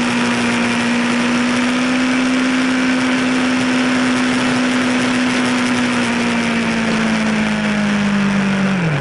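Yamaha sportbike's inline-four engine running at steady high revs under way, heard from the rider's seat with strong wind rush over the fairing. The revs ease down slightly in the last few seconds.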